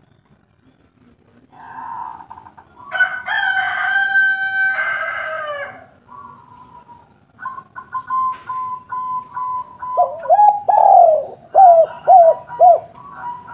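A long rooster crow from about two to six seconds in, then a spotted dove cooing in a run of short repeated notes over a steady high thin tone.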